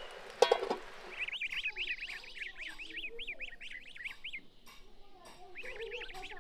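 A single sharp clank as the aluminium cooking-pot lid settles, over a faint hiss. About a second in, goslings start peeping in quick, repeated high chirps, which pause and pick up again near the end.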